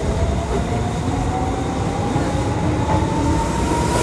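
Tokyu Toyoko Line electric commuter train running: a steady rumble of wheels on the rails, with the traction motors' whine rising steadily in pitch as the train accelerates.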